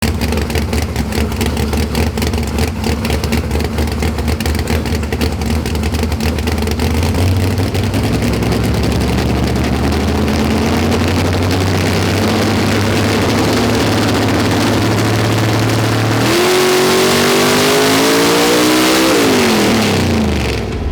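Engine of a nitrous-equipped Nova drag car running under load on a hub dyno. It is loud and lumpy at first, its pitch climbing slowly. About 16 s in it jumps to a higher pitch and rises quickly, then the revs fall away near the end.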